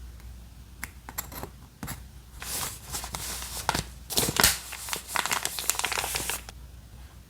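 Paper journaling materials being handled: a few light clicks, then several seconds of paper crinkling and tearing, with louder bursts in the middle.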